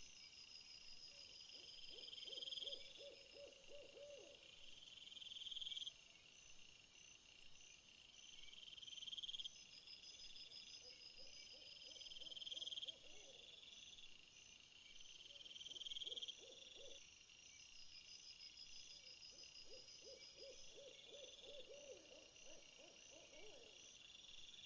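Faint chorus of crickets and other insects: a high trill that swells every three to four seconds over a steady high ringing. A lower, rapidly pulsed trilling call comes in four times.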